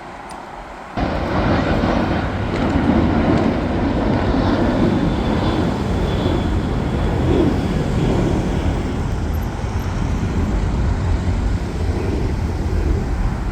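Jet airliner passing close, its engines making a loud, steady rushing noise with a faint high whine. The noise starts abruptly about a second in.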